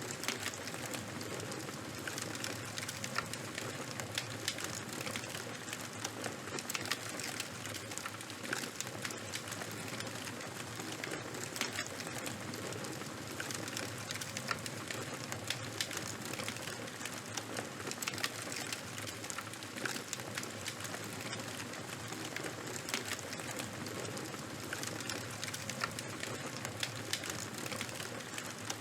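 Charcoal and bonfire burning: a steady hiss dotted with many small, irregular crackles and pops.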